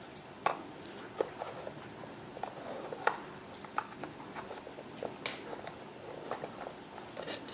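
Light, irregular taps and clicks, roughly one or two a second, from a handmade birdhouse being handled.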